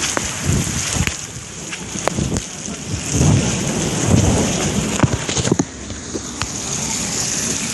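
Heavy rain falling, a steady hiss with scattered sharp ticks of drops striking nearby surfaces. A loud low rumble swells from about three seconds in and dies away about two seconds later.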